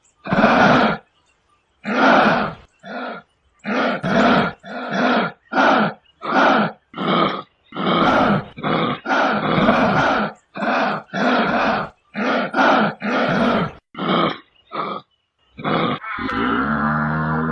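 An animal giving a long series of short, rough roar-like grunts, about twenty of them one after another. Near the end they give way to a different, steadier pitched call.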